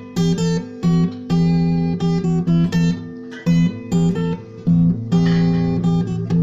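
Acoustic guitar playing an instrumental tune: plucked melody notes and chords, several attacks a second, ringing over sustained bass notes.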